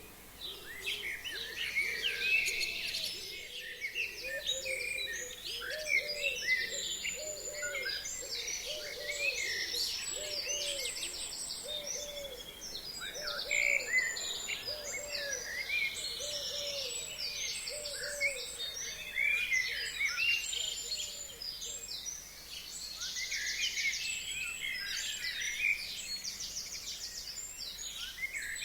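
Chorus of forest songbirds: many overlapping chirps, whistles and fast high trills. Under it, a low hooting call repeats about once a second through the middle of the stretch, then stops.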